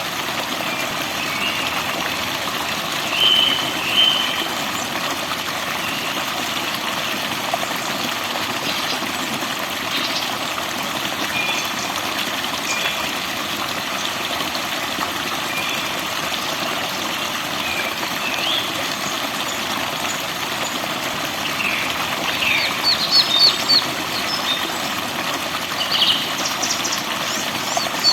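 Forest birds chirping over a steady rush of falling water. Short chirps come every few seconds, and a fast series of rapid chirps comes near the end.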